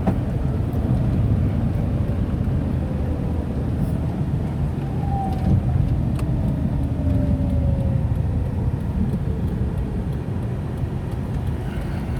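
Tata Nano's small rear-mounted two-cylinder petrol engine and tyre noise heard from inside the cabin as the car drives slowly: a steady low rumble. A faint falling whine passes about five seconds in.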